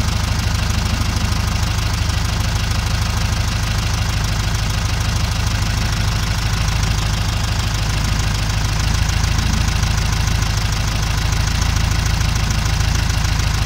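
Volkswagen Beetle's air-cooled flat-four engine idling steadily with a fast, even firing beat, running on newly fitted electronic ignition in place of the points and condenser.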